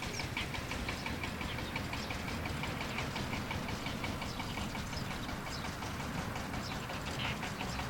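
An engine running steadily at low revs, heard as a constant low rumble, with short high bird chirps over it.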